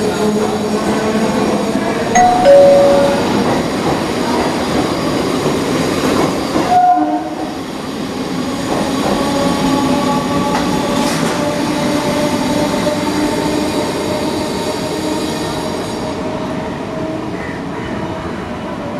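Electric multiple-unit (EMU) local train running on the track beside the platform, a continuous rumble of wheels on rail with steady motor whine. About two seconds in, two short horn toots stand out as the loudest sound.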